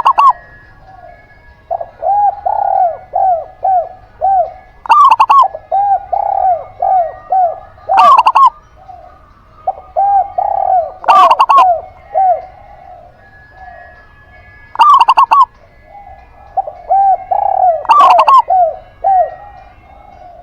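A zebra dove and a spotted dove calling against each other. Short, very loud clipped note groups come roughly every three seconds, and between them runs a softer series of rounded coos at about two a second.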